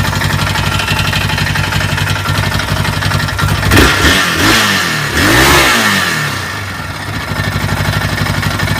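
Yamaha Raptor YFM 660R's single-cylinder four-stroke engine idling with an even beat. It is revved twice, about four seconds in and again just after five seconds, each time rising and falling back, then settles back to idle. The owner says the engine is knocking.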